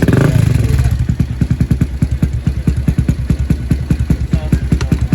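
Motorcycle engine running with an even pulsing beat, about seven pulses a second, with a brief louder surge right at the start.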